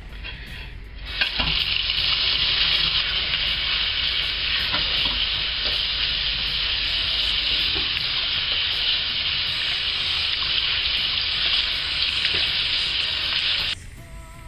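Water running from a tap in a steady hiss that starts about a second in and cuts off suddenly near the end.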